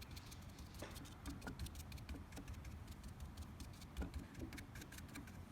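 Faint, irregular soft taps and clicks of a sponge brush dabbing acrylic paint onto spray foam.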